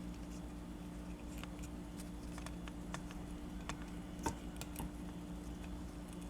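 Light, irregular clicks and taps of a small diecast metal toy being handled, one sharper click about four seconds in, over a steady low electrical hum.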